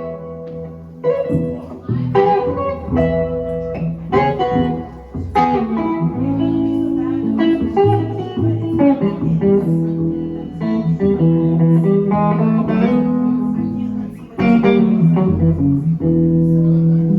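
Guitar picking an instrumental break, with an upright bass playing low plucked notes underneath.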